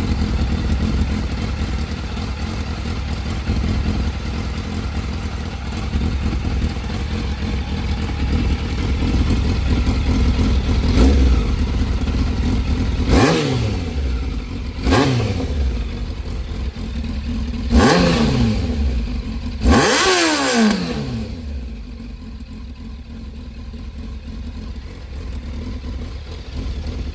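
A Yamaha Fazer 600's inline-four engine idling through its exhaust, blipped five times in the middle (the first lightly), with the revs falling back to idle after each blip before it settles to a quieter idle.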